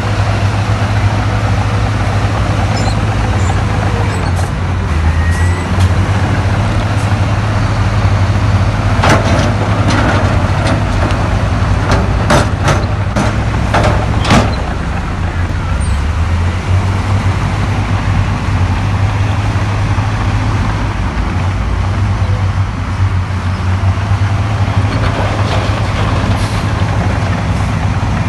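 Diesel engine of heavy earthmoving machinery running steadily under load, with a low hum throughout. A run of sharp clanks and knocks comes about a third of the way in and stops about halfway through.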